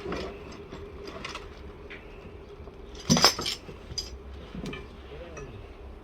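Handling noises: scattered light clinks and knocks, with one louder clatter about three seconds in.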